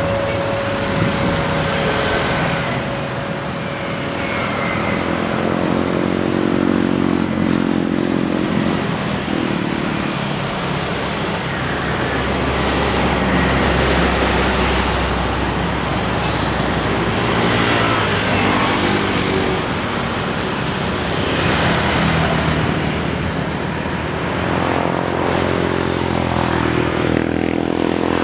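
Steady engine noise with a low hum, and engine tones swelling and fading several times as vehicles pass.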